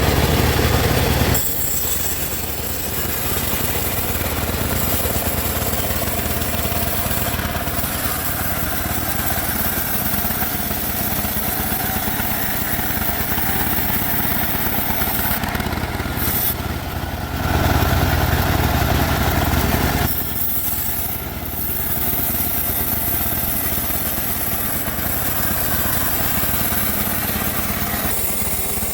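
Homemade sawmill bandsaw running steadily while sawing teak logs, with louder, deeper stretches in the first second or so and again for about two seconds two-thirds of the way through.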